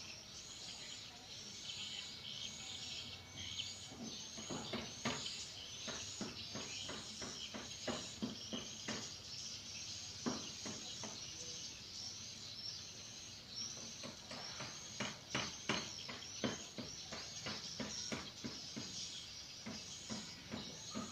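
Swiftlets twittering: a steady string of short, high chirps about two a second, with sharp clicks scattered among them.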